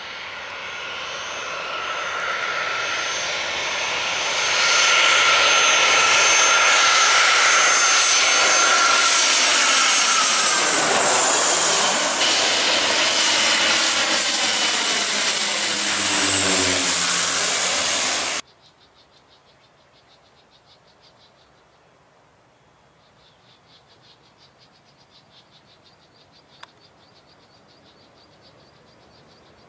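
Airliner passing low overhead: its engine noise builds over about five seconds and stays loud, with a whine that sweeps down in pitch as the plane goes over, then cuts off abruptly. After that, faint insects chirp in a steady pulsing rhythm.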